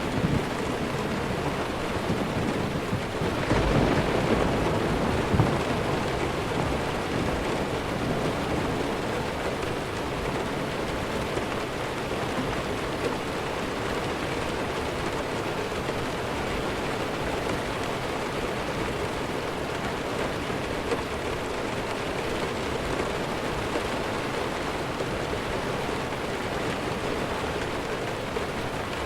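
Steady heavy rainfall, with a low swell of distant thunder a few seconds in that fades back into the rain.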